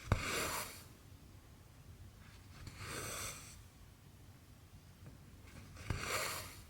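Needle and cotton thread being drawn through cross-stitch fabric: three swishes of thread through the cloth about three seconds apart, the first and last each starting with a light click as the needle pierces the fabric.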